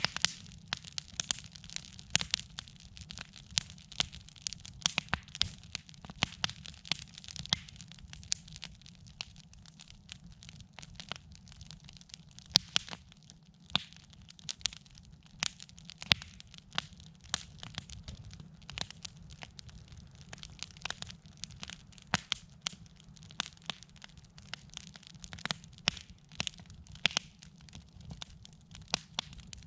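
Campfire of burning wood crackling, with sharp, irregular pops and snaps of varying loudness over a low steady rumble.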